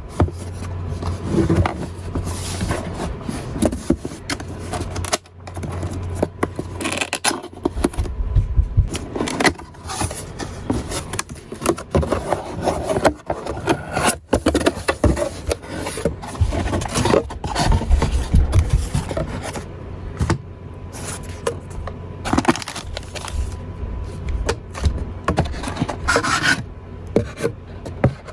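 Cardboard box and packaging of a car stereo head unit being handled and opened: scraping, rubbing and frequent irregular knocks and clicks.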